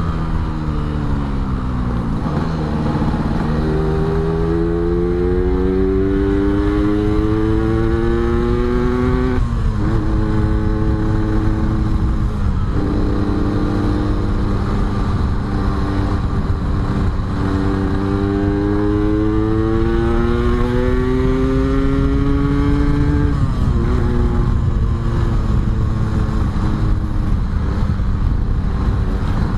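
Yamaha RX-King's two-stroke single-cylinder engine under way, its pitch climbing steadily through each gear and dropping sharply at the shifts, about ten and thirteen seconds in. A long pull follows, easing off a little after twenty-three seconds to a steady run.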